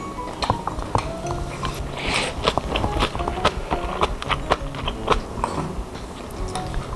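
A quick run of short crisp clicks and crunches over light background music.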